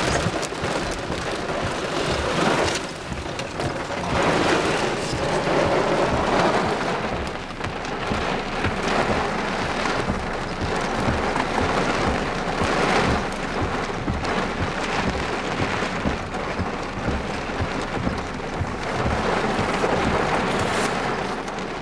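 Heavy wind-driven rain pelting a car's windshield and body, heard from inside the cabin. It swells and eases every few seconds as strong thunderstorm gusts sweep through.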